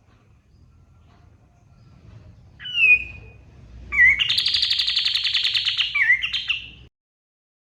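A kapas tembak songbird singing. It gives one short whistled note that drops in pitch, then about a second later a loud, fast rattling trill of about two seconds, ending on a final note. The sound then cuts off abruptly.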